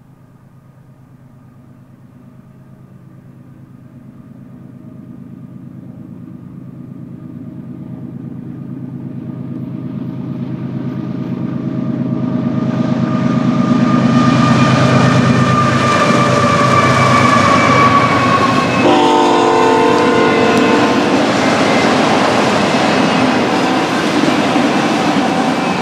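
BNSF freight train's diesel locomotives approaching, getting steadily louder until they pass about halfway through. A short horn blast sounds about three-quarters of the way in, then the cars roll by with a steady clatter of wheels on rail joints.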